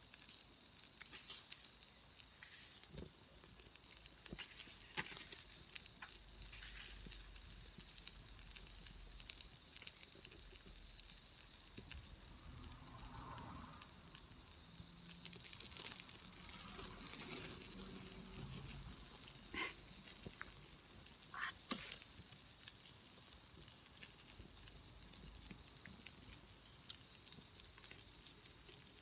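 Autumn crickets trilling steadily in one high, unbroken tone, with a few scattered sharp clicks over it.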